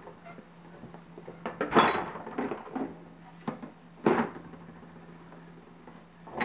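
Bottles and jars in an open refrigerator knocking and clattering against each other and the shelves, a few separate bumps with the loudest about two seconds in and another about four seconds in, over a steady low hum.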